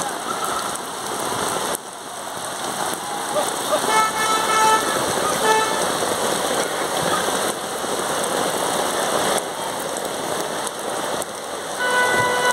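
Heavy rain pouring onto a flooded street, a dense steady hiss of water. A vehicle horn sounds briefly around four seconds in and again near the end.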